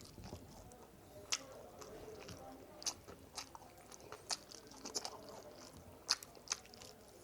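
A person chewing and smacking close to the microphone while eating, with sharp wet mouth clicks every half second to a second.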